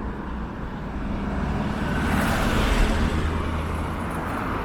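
Road traffic: a car passing by, its tyre and engine noise swelling to a peak about two to three seconds in and then fading, over a steady low rumble of street traffic.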